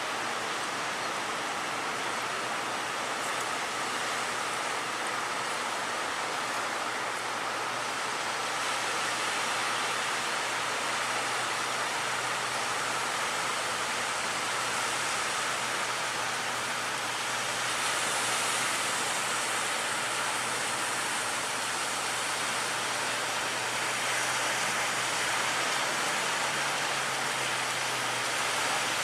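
Steady roar of heavy surf breaking at a river mouth, with a faint low hum of a boat engine running underneath.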